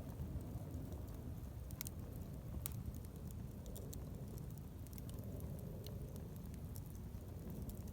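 Wood campfire burning: scattered sharp crackles and pops over a low steady rumble.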